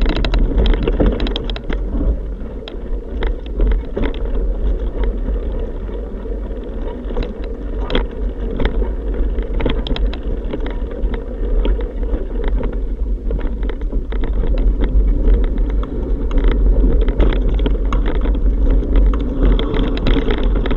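Wind buffeting the microphone of a camera on a moving bike: a steady low rumble with frequent rattling clicks.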